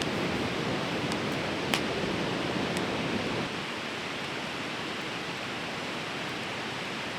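Steady rushing of a fast-flowing river, with a few sharp crackles from a wood campfire, the clearest about two seconds in.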